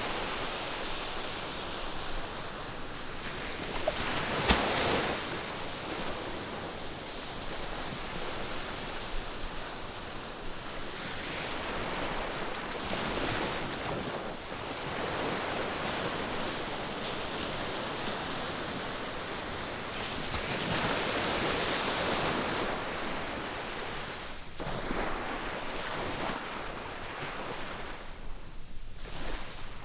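Ocean surf washing onto a beach: a steady rush of waves that swells and falls back every few seconds, with some wind on the microphone. One sharp click about four seconds in.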